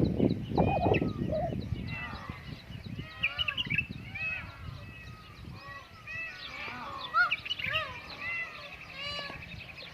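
A flock of birds chirping and calling at once, many short overlapping calls with a fast trill near the end. There is a low rumbling noise in the first second or so.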